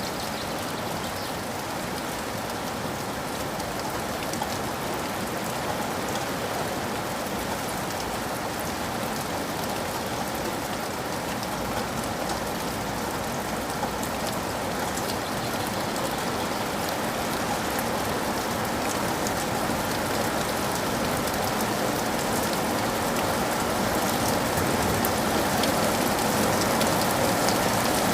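Steady rain falling, with many small drop patters over an even hiss, growing slowly louder toward the end.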